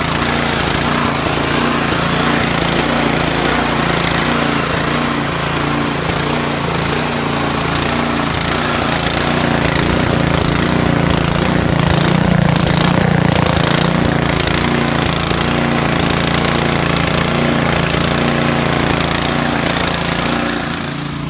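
Craftsman snowblower's small gas engine running steadily at a fast, even chug, warming up after a cold start following nearly a year unused.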